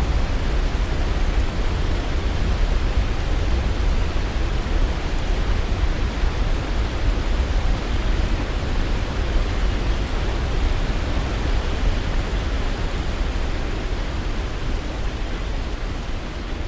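Waterfall: a steady, dense rush of falling water, heaviest in the low end, easing off slightly near the end.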